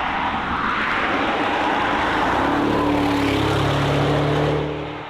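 Audi RS7 prototype's 4.0-litre V8 running under power: first a dense rush of engine and road noise, then from about halfway a steady engine note that fades near the end.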